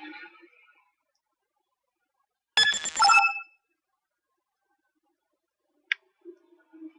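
A short electronic chime of several tones at once, lasting under a second, about two and a half seconds in, then a single sharp click near six seconds.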